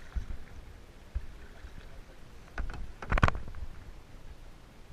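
Kayaking on the water: paddle and water sounds over a low rumble, with a short cluster of sharp knocks or splashes about three seconds in.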